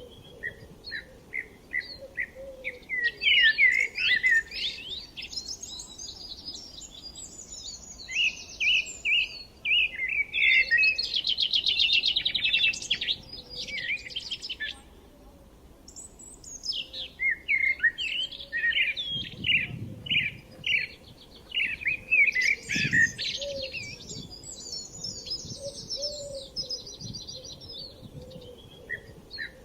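Several birds singing and chirping together: strings of short repeated chirps and rapid trills overlapping one another.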